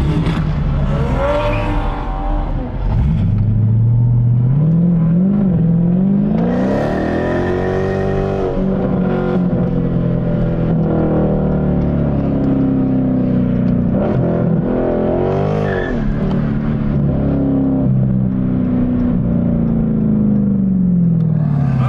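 Car engine accelerating: its note climbs about three seconds in, holds high for a long stretch, then falls away near the end.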